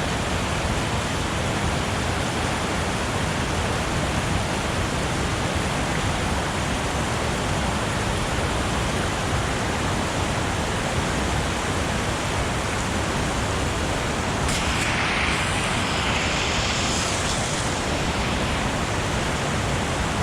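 Steady rushing of flowing stream water, with a brief brighter hiss about three quarters of the way through.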